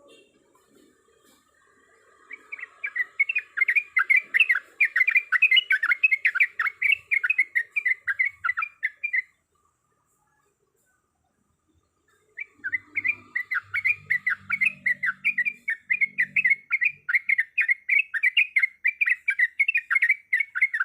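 Yellow-vented bulbul (trucuk) singing a long rolling song of quick repeated chirps, about four to five a second, broken by a pause of about three seconds near the middle.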